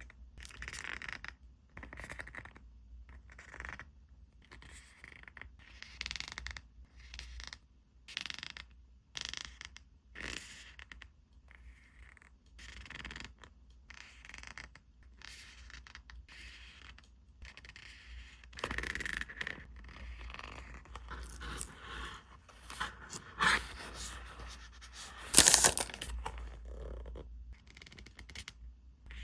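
Hands handling paper and plastic packaging and supplies: irregular rustling, crinkling and scraping, with two louder crinkles a few seconds before the end.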